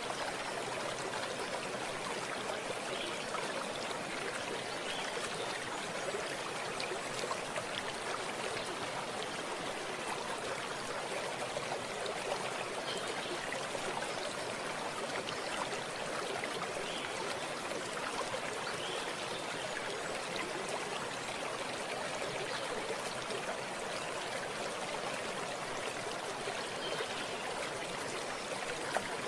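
Running water of a stream, a steady rushing and trickling that does not change.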